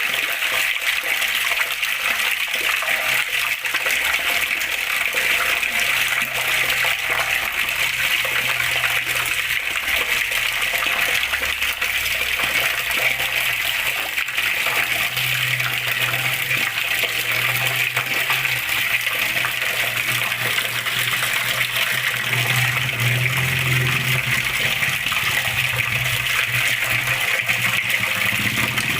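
Running water splashing and gurgling steadily, an even rushing noise with no breaks. A low hum joins in the background about five seconds in and grows stronger in the second half.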